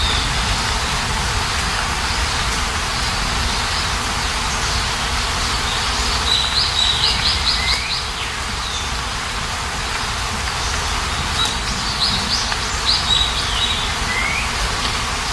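Steady hiss of rain or running water with small birds singing over it: a run of quick high notes about six seconds in and another about twelve seconds in, each led by a short rising whistle.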